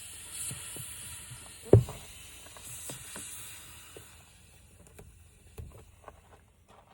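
Air hissing steadily out of a car tire, then dying away about four seconds in. A single loud knock comes near the two-second mark.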